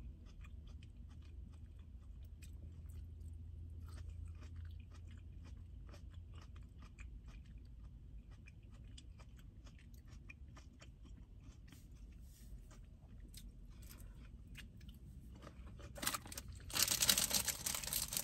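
Close-up chewing and crunching of grapes, a long run of small sharp clicks over a steady low hum. Near the end a foil wrapper is crinkled, much louder than the chewing.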